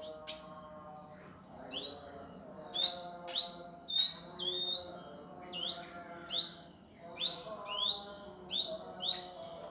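Indigo bunting song: a rapid run of short, sharp chirps that sweep upward, about two a second and tightly packed, in the harsh, fast style that bird keepers use as a tutoring recording.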